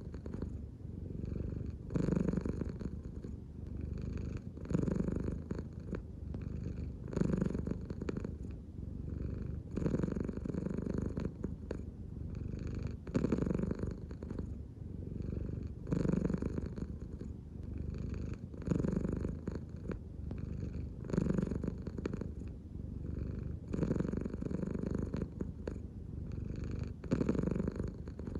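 American Shorthair cat purring steadily, the purr swelling and easing with each breath, about one breath every two and a half to three seconds, the sign of a relaxed cat.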